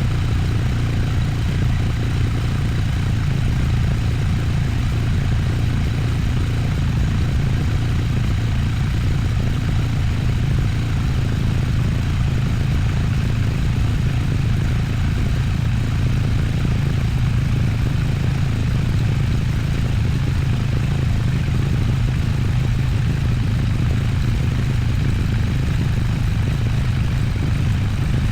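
Triumph Bonneville Bobber's parallel-twin engine running steadily, a constant low rumble under a steady even hiss.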